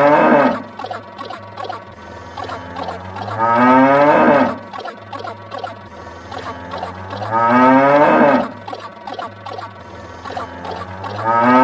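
A looped sound effect: a drawn-out call rising in pitch and swelling to a loud peak, repeating about every four seconds over a low steady drone.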